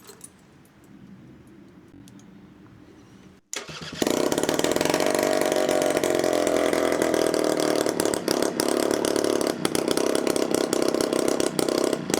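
Honda Vision NH80's 80cc two-stroke single-cylinder engine firing up about four seconds in and then running really loud, with no exhaust fitted.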